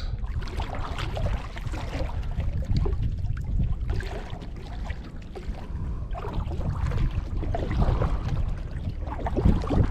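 Kayak paddle strokes: the blades dip and splash in the water with a trickling, gurgling wash, the strokes swelling and fading every second or two.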